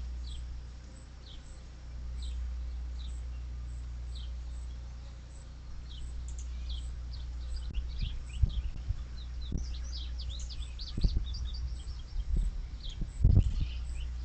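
Wild birds chirping: short high calls repeating about once a second, becoming a busy flurry of calls a little after the middle. Underneath runs a steady low rumble, with a few low thumps in the second half, the loudest near the end.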